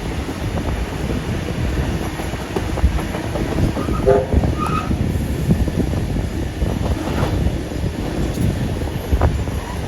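A steam-hauled passenger train running along the track, heard from on board: a steady rumble of wheels on rail with scattered clicks, and a brief squeak about four seconds in.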